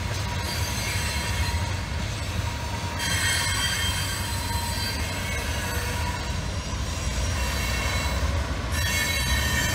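Covered hopper cars of a CSX grain train rolling past with a steady low rumble. High-pitched metal squealing comes in about three seconds in and again near the end.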